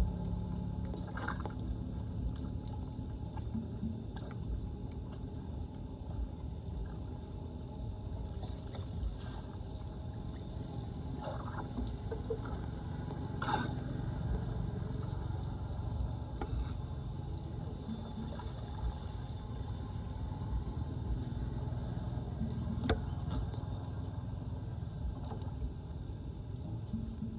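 Floodwater draining through a cleared street drain, a steady low gurgling rush with a few scattered knocks.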